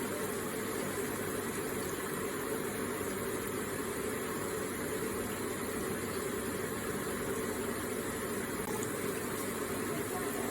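Electric water feature: water trickling and splashing steadily, an even rushing sound.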